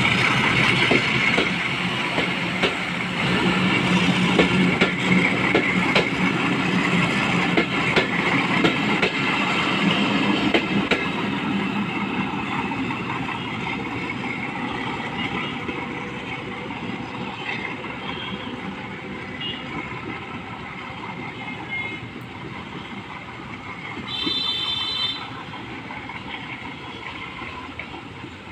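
Passenger train coaches rolling past, wheels clicking over the rail joints, the sound fading steadily as the train pulls away. A short high-pitched tone sounds near the end.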